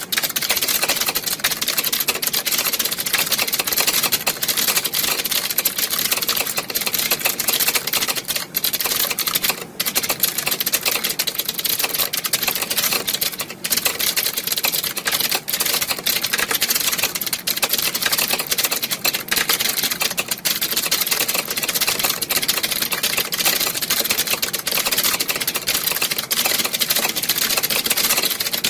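Many computer keyboards being typed on at once, a dense, continuous clatter of key clicks with no pauses, as in an exam hall full of typists.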